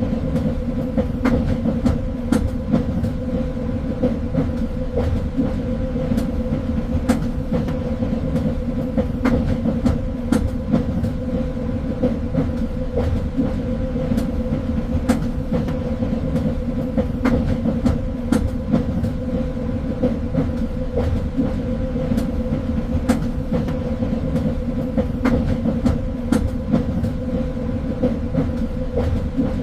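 Train running steadily along the rails: a continuous low rumble with a steady hum, and irregular clicks and knocks from the wheels on the track.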